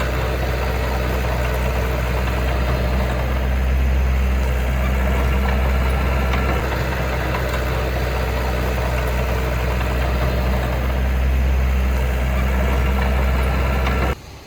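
Heavy machine's diesel engine running steadily at low speed, a deep even drone; it cuts off abruptly just before the end.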